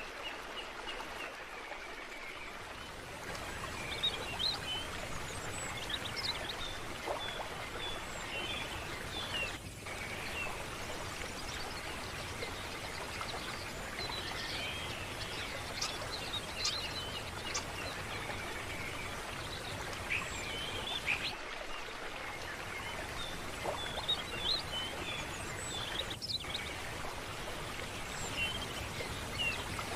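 Steady rush of running water, with many short bird chirps and calls scattered over it.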